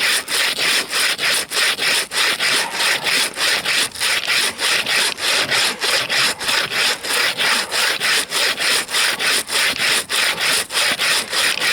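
Bow saw cutting through a frozen fir log with quick, even back-and-forth strokes, the rasp of each stroke broken by a short dip at every reversal. The blade is sharpened and cutting freely.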